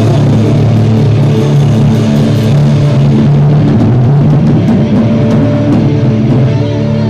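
A live rock band rehearsing: guitar and drum kit playing loud, with sustained notes and cymbal hits. The recording is harsh and overloaded.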